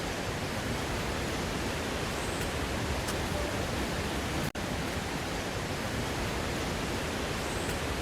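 Steady rushing of water from a waterfall, an even roar with no breaks except a very short dropout about halfway through.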